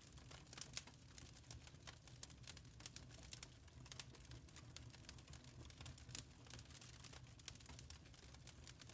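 Faint wood fire crackling in a fireplace: irregular sharp snaps and pops over a low, steady rumble.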